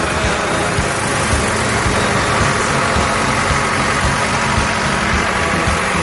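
Tractor engines running steadily as a tractor run passes by.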